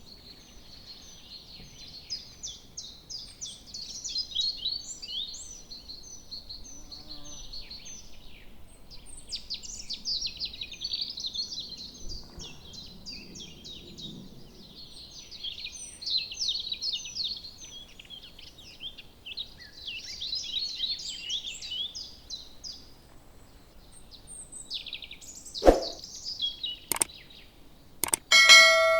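Many small birds chirping and twittering in a dense, continuous chorus. Two sharp clicks come near the end, then a loud metallic clang that rings on.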